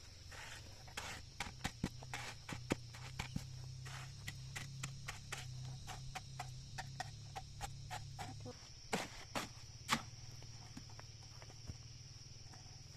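Crickets chirring steadily. Over them comes a run of irregular light knocks and taps, with two louder knocks near the end, and a low hum that stops about two thirds of the way through.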